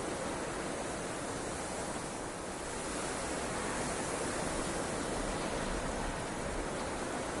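Steady rushing noise of blizzard wind, an even hiss without gusts or breaks.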